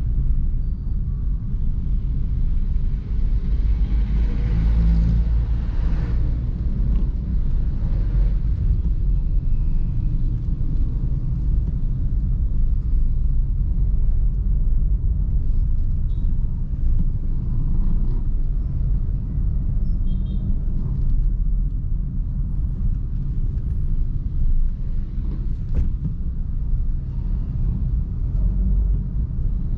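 A car driving on city streets: a steady low engine and road rumble. A brighter hiss swells briefly about four to six seconds in.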